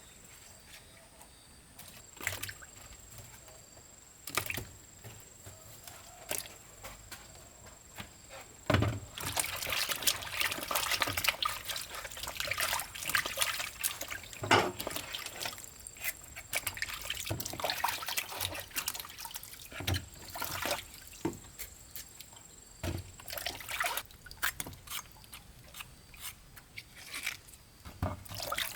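Water trickling and splashing in uneven spurts, with scattered sharp knocks; it starts about a third of the way in and thins out near the end.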